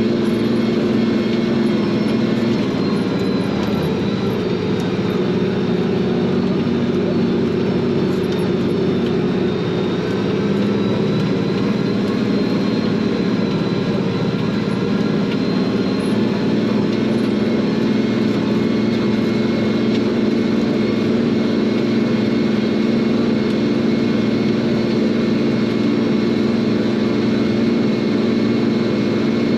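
Farm tractor's diesel engine running steadily under load while pulling a field cultivator.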